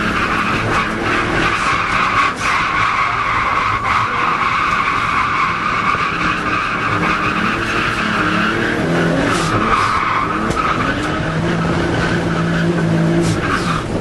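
Nissan Sil80 drift car with an RB25DET turbocharged straight-six: tyres squealing steadily through a long drift while the engine revs rise and fall.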